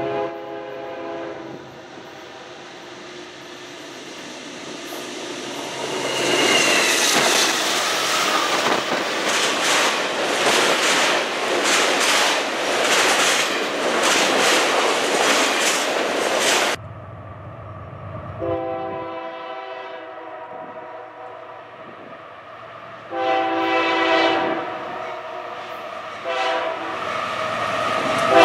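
A freight train sounds its horn briefly, then passes close by, its cars rumbling and wheels clacking over the rail joints. After a sudden cut, a second freight train, led by Union Pacific diesel locomotives, blows three long horn blasts as it approaches, the last the loudest.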